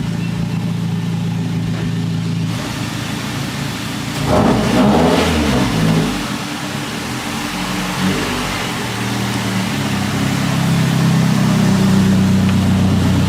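Car engine running steadily, then revving and changing pitch about four seconds in, before settling back into a steady drone that rises slowly near the end.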